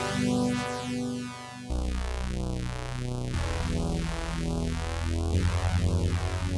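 Sequential OB-6 analog synthesizer playing sustained low notes through a notch filter that sweeps up and down about three times every two seconds. The note changes three times.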